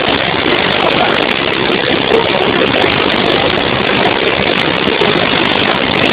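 Floodwater pouring over a dam and churning below it: a loud, steady roar of rushing water.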